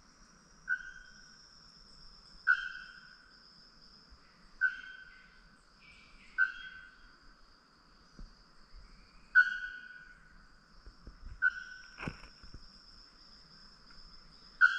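Forest sounds: a bird gives loud, short, ringing single notes about every two seconds, over a steady high insect drone. A sharp click comes about twelve seconds in.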